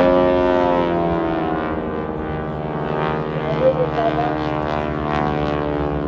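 Propeller aircraft engine droning in a wing-walking display. Its pitch falls a little in the first second as the plane passes, then holds steady.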